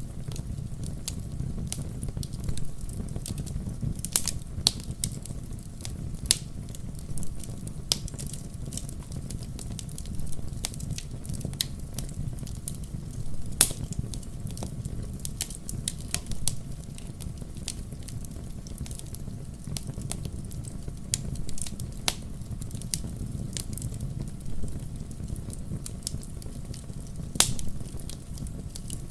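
Wood campfire crackling: a steady low rush of burning flames with frequent sharp pops and snaps, two louder pops about halfway and near the end.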